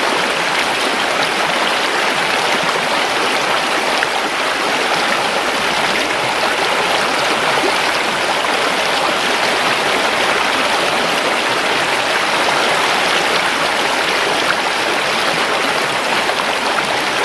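A river or stream flowing steadily over stones, an even rushing and babbling of water without breaks.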